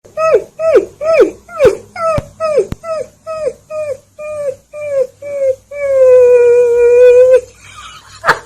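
A dog giving a run of short calls, each falling in pitch, about three a second, then one long howl held steady for about a second and a half.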